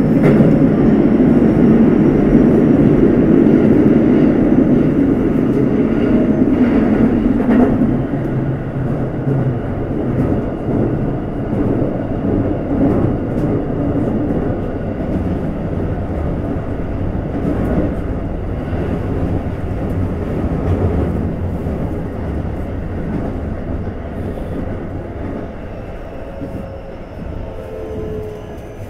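Running noise inside a Keikyu N1000 series electric train car fitted with a Toyo IGBT VVVF inverter: a steady rumble of wheels on rail at speed. It is loudest for the first eight seconds or so, then drops and slowly eases off.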